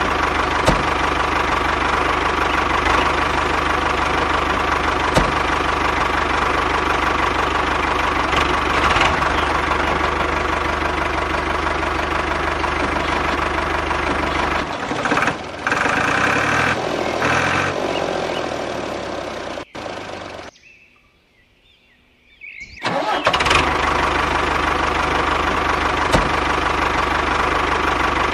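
Small engine of a miniature model tractor running steadily. The sound changes about fifteen seconds in, cuts out for about two seconds near twenty seconds, then runs steadily again.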